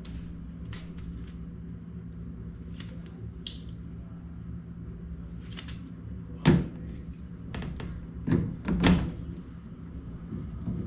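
Several knocks and thumps, the loudest about six and a half seconds in and two more close together near nine seconds, with lighter clicks between, over a steady low hum.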